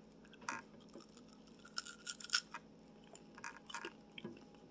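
Close-up eating sounds: a person chewing an Indian sweet, with faint, irregular wet mouth clicks and small crackles.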